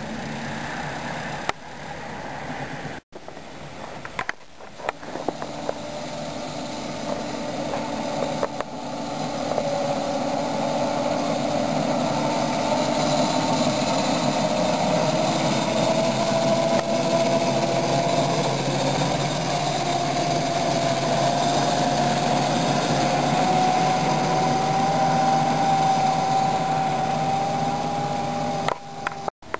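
Ride-on backyard railroad train running along its track, a steady mechanical running noise with a whine that slowly rises in pitch through the second half.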